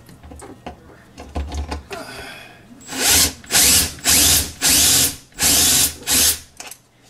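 Power drill driving a screw in six short, loud bursts, after a few light knocks.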